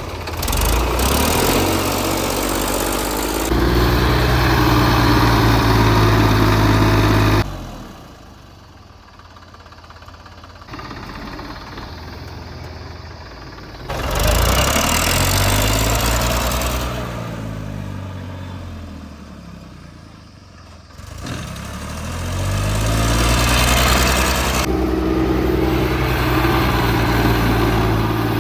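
Diesel tractor engine working hard on an uphill climb, its revs rising and falling as it labours. The sound breaks off suddenly a few times, with one quieter stretch of engine noise, before the engine picks up again.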